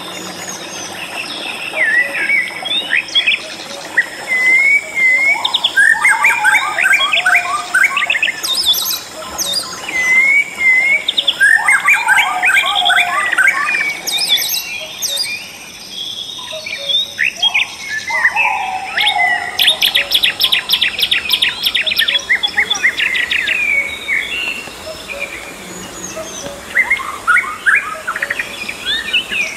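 Several rainforest birds singing and calling at once: whistled phrases, fast trills and chirps overlapping, in bouts with short lulls between them.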